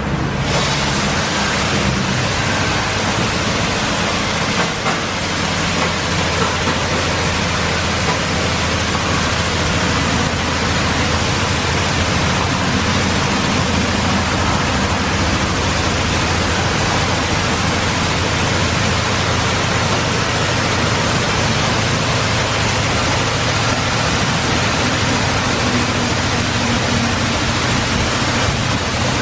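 Oasis Baywash i5 touch-free car wash spraying high-pressure water over a car, a steady loud hiss of water with a low machine hum underneath.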